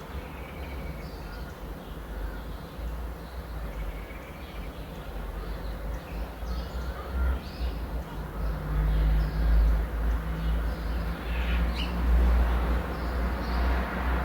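Birds calling in short, scattered calls over a low rumble that grows louder in the second half.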